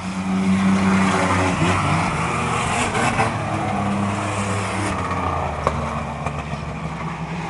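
Racing trucks' engines running at speed on an oval track, growing louder in the first second or so as the field comes past, then a steady engine drone.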